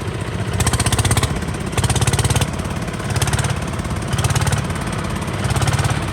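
Kubota RT 140 DI single-cylinder diesel engine running with a fast, even chugging knock, swelling louder five times at roughly one-second spacing.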